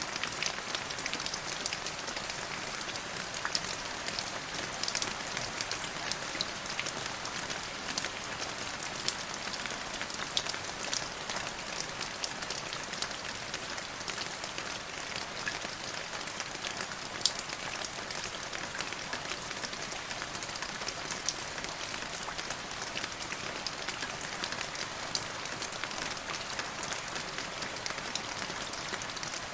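Steady rain falling, a dense even patter with many distinct drops ticking through it.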